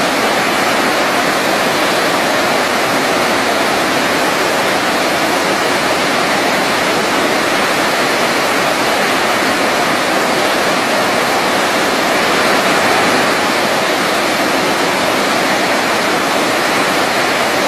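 Waterfall rushing in a steady, unbroken roar of falling water, even like white noise.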